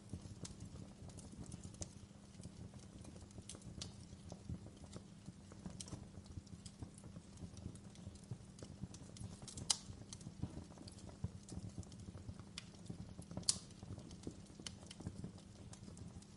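Wood fire burning in a fireplace: a soft low rumble of flames with irregular crackles and pops, two sharper pops at about ten and thirteen seconds in.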